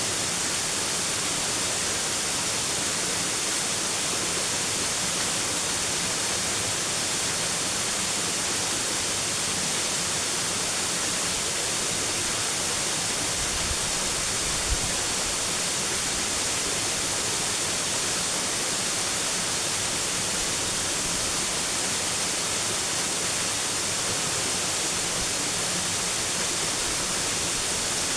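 Steady rushing water, a continuous even hiss that does not change, with one brief tick about halfway through.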